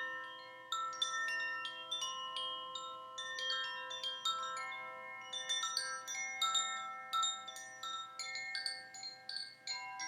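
Wind chimes tinkling: metal tones struck at irregular moments, several at a time, each ringing on and overlapping the next.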